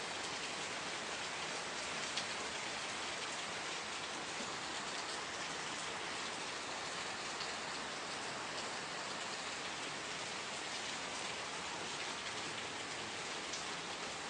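Steady rain falling, an even hiss of many drops with no letup, with one slightly sharper drop about two seconds in.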